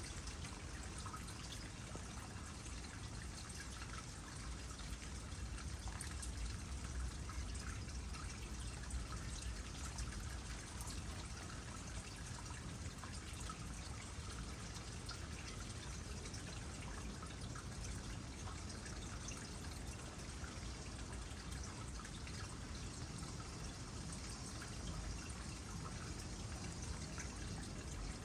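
Water trickling steadily into a small pond, with many small drips and splashes throughout.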